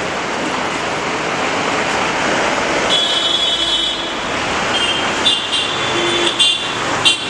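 Steady road traffic noise with several vehicle horns sounding. One horn is held for about a second, followed by a string of short honks near the end.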